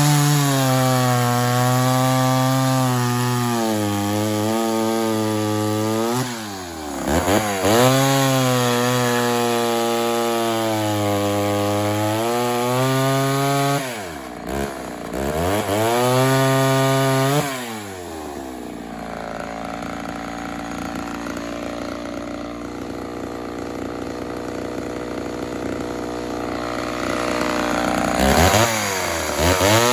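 Two-stroke chainsaw cutting wood at high revs, its pitch sagging and recovering under load, with sudden drops in revs about a quarter and a half of the way through. It runs quieter and steadier for about ten seconds in the second half, then comes back loud near the end.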